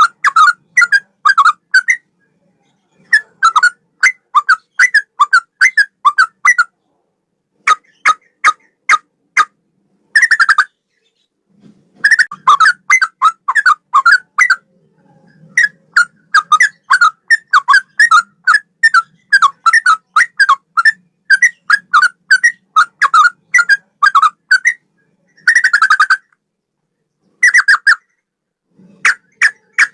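Sooty-headed bulbul (trucukan) singing a loud song in the straw-headed bulbul (cucak rowo) style: rapid runs of short whistled notes, about four or five a second, in phrases broken by short pauses.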